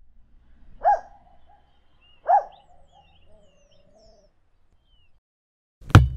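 Bird calls: two loud calls about a second and a half apart, then faint high chirping. A sharp knock near the end.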